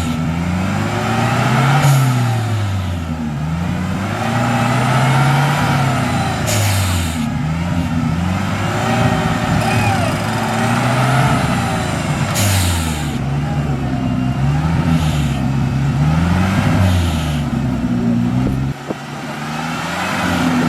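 Off-road 4x4's engine revving up and down over and over, the pitch rising and falling every couple of seconds, with several short hissing bursts between the revs.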